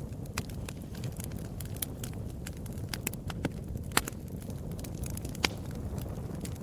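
Wood fire burning in a fireplace: a steady low rumble of flames with irregular sharp crackles and pops, the loudest about four seconds in and again near the end.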